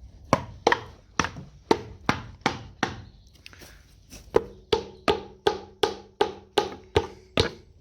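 Hammer tapping on a tractor engine's stuck rocker cover to break its gasket seal: a steady run of sharp knocks, about two or three a second, with a short pause about halfway through. The later blows ring with a faint metallic tone.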